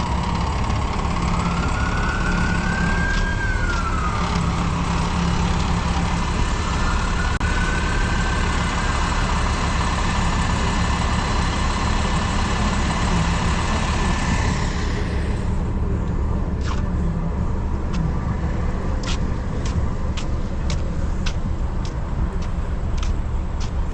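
Steady low rumble of a running vehicle engine and road noise, with a whine that rises and falls twice in the first eight seconds. A broad hiss drops away about fifteen seconds in, leaving scattered clicks and rattles over the rumble.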